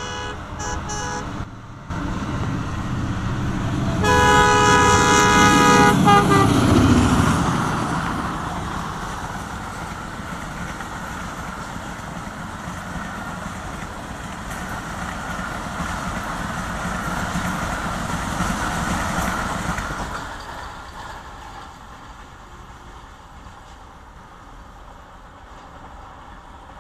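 Locomotive horn of a passenger train: two short toots in the first second or so, then a long loud blast about four seconds in that drops in pitch as the locomotive passes. The coaches then run by on the rails with a steady rumble for about fifteen seconds, fading away near the end.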